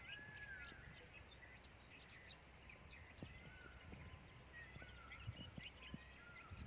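Faint bird chirps and a few short arching whistled calls, repeating every second or two, over a low outdoor rumble.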